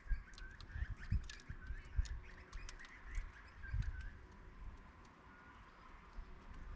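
Small birds chirping in short calls, among many sharp clicks and a few low thumps, busiest in the first four seconds.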